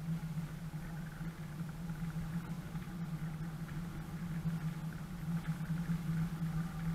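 4x4's engine running at steady low revs as the vehicle crawls along a dirt track, heard from inside the cab as a constant low drone.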